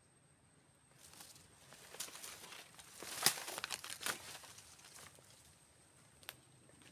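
Rustling and crackling, like brush or dry leaves being handled or pushed through: irregular crackles for about four seconds starting a second in, with one sharp crack in the middle, then a single tick near the end.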